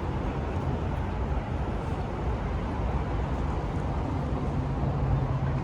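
Steady low hum of car engines and traffic, with one engine's low drone holding steady for the last second or so.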